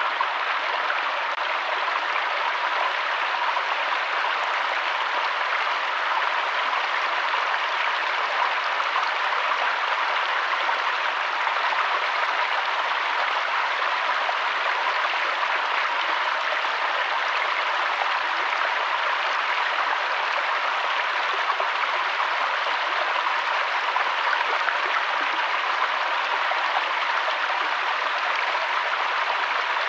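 Steady, unbroken sound of running water, even in level throughout.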